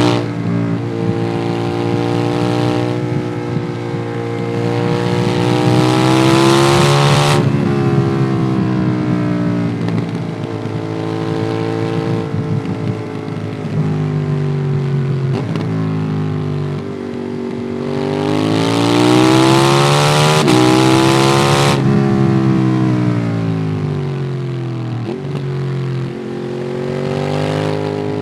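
Ducati Monster 821's L-twin engine through a QD Twin Gunshot aftermarket exhaust, heard onboard while riding. The engine note climbs twice under throttle, once a few seconds in and again about two-thirds of the way through, and each time falls back as the rider eases off. Wind rush grows during each pull.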